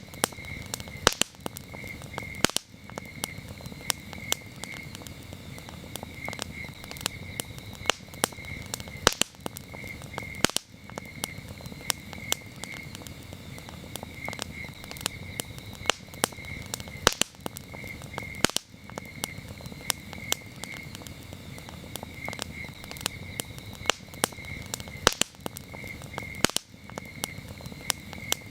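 Campfire crackling with frequent sharp pops over a low rush, with crickets chirping steadily in rapid pulses behind it.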